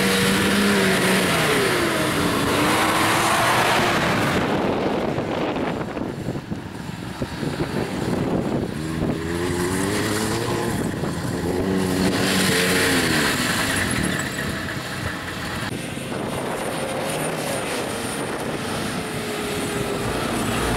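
Off-road 4x4 engines revving hard on sand, their pitch rising and falling in several bursts, over a continuous rushing noise.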